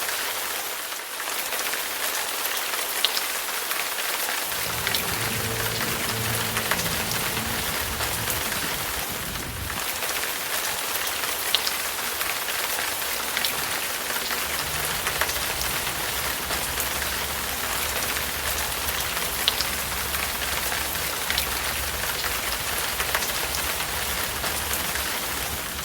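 Steady rain hiss with scattered sharp drops. From about four seconds in, a low rumble sits underneath.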